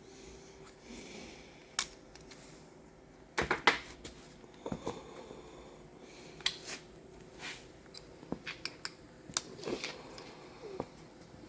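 Irregular metallic clicks and clinks of hand tools and parts being handled while a 4L60E automatic transmission is taken apart. The loudest cluster comes about three and a half seconds in, with a quicker run of light ticks near the end, over a faint steady hum.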